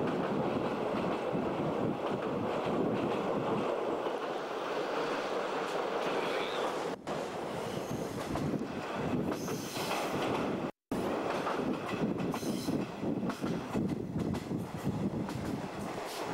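JNR 50-series passenger coach running at speed, heard through an open window: a steady rumble of wheels on the rails, with sharper clicks over the rail joints in the second half. The sound cuts out for an instant about two-thirds through.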